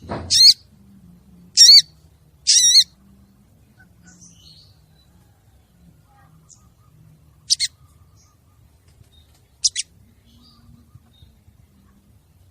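Female sogon bird calling: three short, wavering, high calls in quick succession, then after a pause two sharp double notes. A brief low thump comes right at the start.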